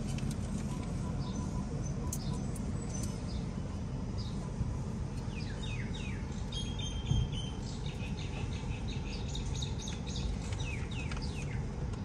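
Small birds chirping: scattered calls at first, then a busy flurry of short falling chirps from about halfway on, over a steady low rumble.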